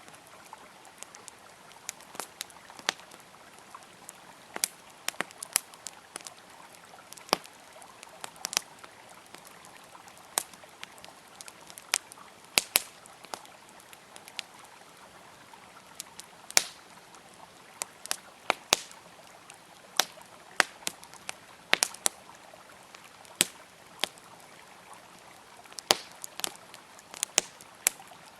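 Campfire crackling, with sharp irregular pops every second or so, over the steady rush of a flowing river.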